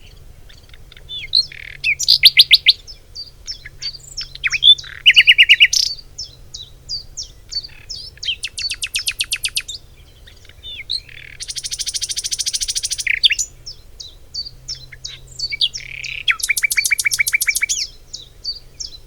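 Songbirds singing: one bird repeats loud, rapid trills about five times, one of them buzzier than the rest, over a steady background of many short high chirps from other birds.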